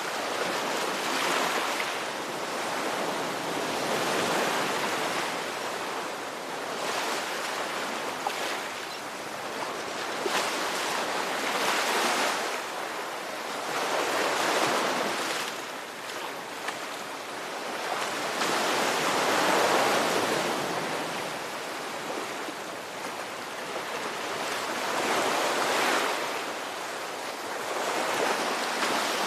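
Ocean waves breaking and washing on a shore, a steady rushing wash that swells and ebbs every few seconds.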